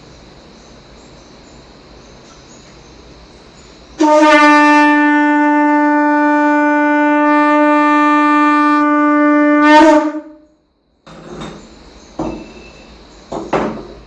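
A conch shell blown in one long, steady note of about six seconds, which swells briefly just before it stops. A few sharp knocks follow near the end.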